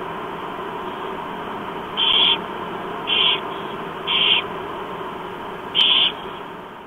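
Barn owl chicks begging with short, raspy screeches, four in all roughly a second apart, over a steady hiss.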